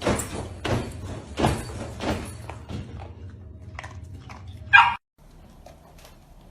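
A dog barking in a series, about one bark every 0.7 seconds and loudest in the first two seconds, then fainter. A sharper, louder sound comes just before everything cuts off suddenly about five seconds in, leaving only faint background noise.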